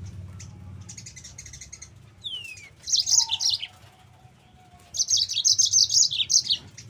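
Yellow-fronted canary (mozambik) singing: faint notes at first, a downward-sliding whistle, then two bursts of rapid, high chattering song, the second and longer one about five seconds in.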